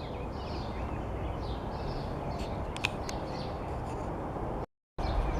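Outdoor morning ambience: a steady background hum with faint, scattered bird chirps in the distance. The sound cuts out completely for a moment near the end.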